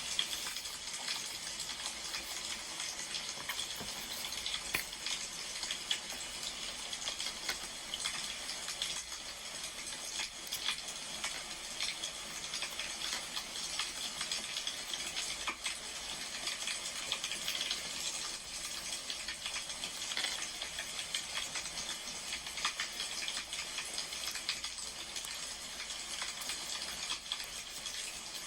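Wood fire crackling: a steady hiss dotted with frequent small, irregular pops and snaps.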